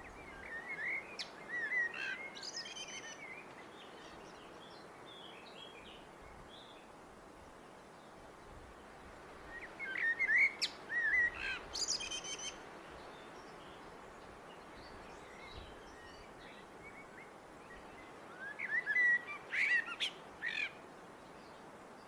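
Blackbird singing: three separate song phrases about nine seconds apart, each a short run of low fluting notes that breaks into higher, quicker twittering, with pauses of faint background noise between.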